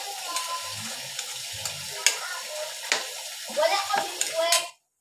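Pieces of meat sizzling in a little liquid in an aluminium wok while a metal ladle stirs them, with several sharp clicks of the ladle against the pan. A voice comes in briefly near the end, and the sound cuts off just before it closes.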